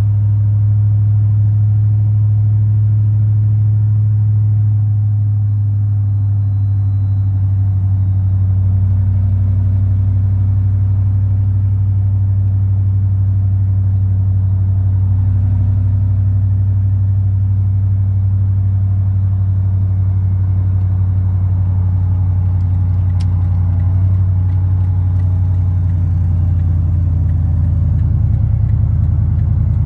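Engine of a supercharged 1999 Ford Lightning pickup running steadily on freshly replaced coil packs, a low even drone heard from inside the cab with the windows up. It swells slightly in the last few seconds.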